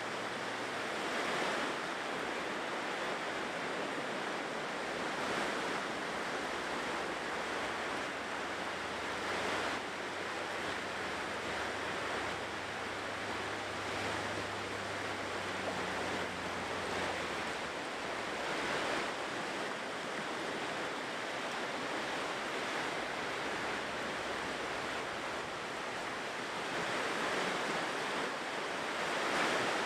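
Ocean surf washing on a shore, a steady rush that swells as each wave breaks every few seconds. A faint low hum runs underneath for about the first half, then fades out.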